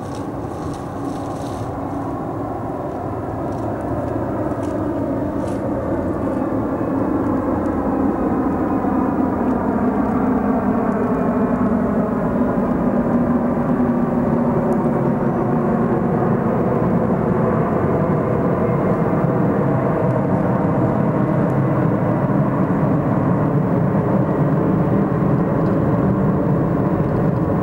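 Boeing 747-400 freighter's four jet engines running, the roar growing steadily louder as the aircraft draws nearer, with slowly sweeping tones through it.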